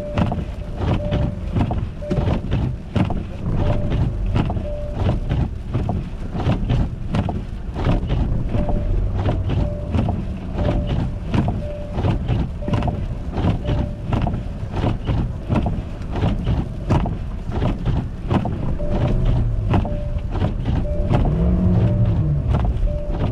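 A car moving over an icy road, its tyres crackling over ice and packed snow in a dense run of short cracks, with a faint electronic beep repeating about twice a second. Near the end the engine note rises and falls.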